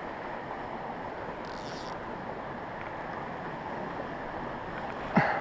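Steady rush of a mountain creek's flowing water. A short high hiss comes about a second and a half in, and a sharp knock, the loudest sound, comes near the end.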